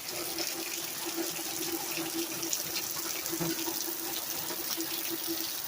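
Heavy rain pouring down in a steady hiss, with scattered drop taps and a steady low note underneath.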